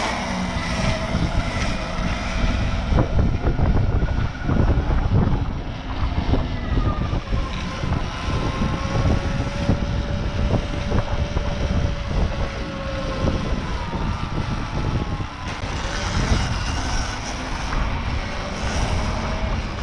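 Electric dirt bike being ridden, its motor whine gliding up and down in pitch with speed, over a constant low rumble of wind on the microphone.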